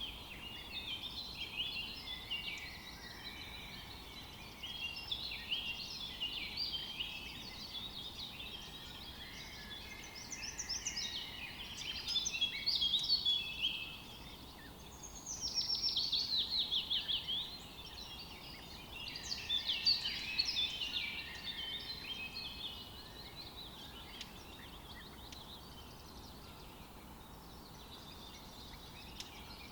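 Several songbirds chirping and singing over one another, with a few louder bouts of song. Just past halfway through comes a fast run of rapidly repeated notes.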